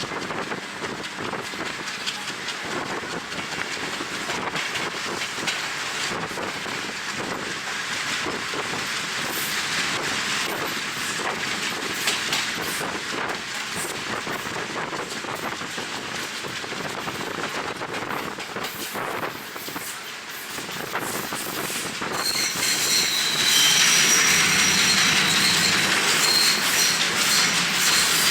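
Passenger train running, its wheels clacking over the rail joints, with wind rushing past the microphone. About three-quarters of the way through it gets louder and a high-pitched wheel squeal sets in.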